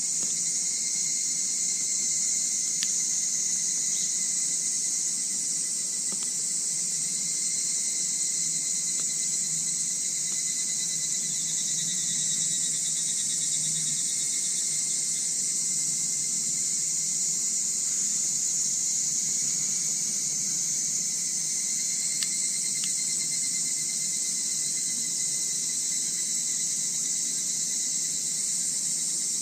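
Steady chorus of crickets and other night insects, a dense, unbroken high-pitched trill, with a few faint sharp clicks now and then.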